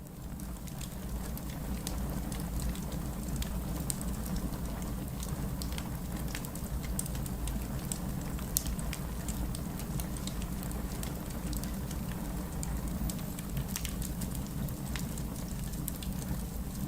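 Fireplace crackling with scattered sharp pops over a steady wash of rain and a low rumble, fading up over the first couple of seconds.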